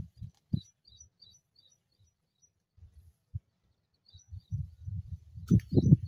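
A small bird chirping in a quick series of high notes, about three or four a second. It pauses for a couple of seconds midway and starts again. Under it runs uneven low rumbling noise, loudest near the end.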